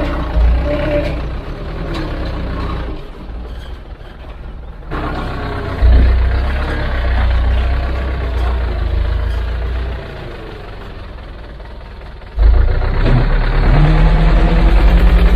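Heavy diesel construction machinery engines running, a deep drone with several sudden jumps in level and character, the loudest stretches near the middle and at the end.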